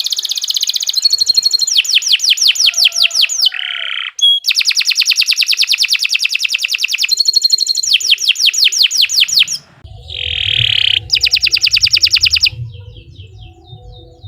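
Domestic canary singing long, rapid rolling trills of fast repeated sweeping notes, about ten a second, with short breaks between phrases. A low pulsing background sound comes in about ten seconds in, and the song drops to softer notes near the end.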